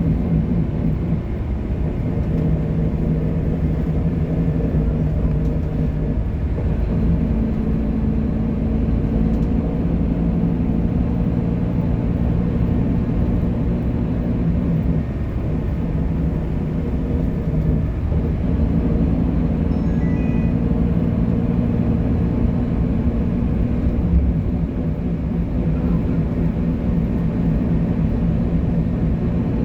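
Scania bus's diesel engine running under way, a steady drone whose pitch steps up and down a few times as the revs change.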